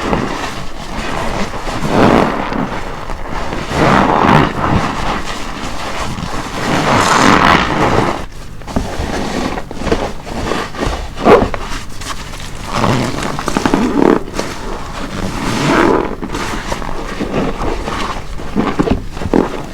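A soapy car wash sponge with a hollow middle being squeezed by hand again and again, each squeeze a wet, bubbly squelch. The squeezes come about every two seconds.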